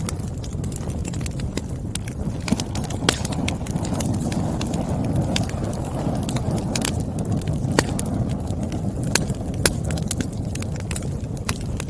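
Burning firewood crackling: irregular sharp pops and snaps, a few of them louder, over a steady low rushing noise.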